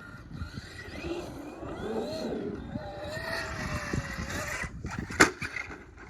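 A radio-controlled monster truck driving, its motor whining up and down in pitch as the throttle changes, over the crackle of tyres on dirt. A single sharp knock about five seconds in.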